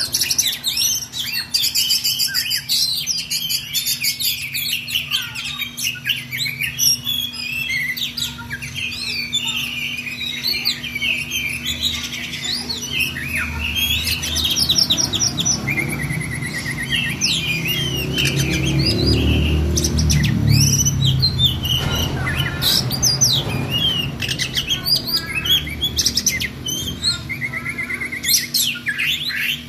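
An Oriental magpie-robin (kacer) singing a long, unbroken rolling song of rapid, varied whistles, trills and chirps, the continuous 'ngerol' delivery prized in tutor recordings for training songbirds. A low rumble sits under the song through the middle.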